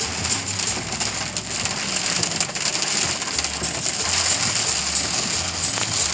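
Heavy rain from a strong thunderstorm pouring down, a steady hiss thick with the patter of drops striking surfaces.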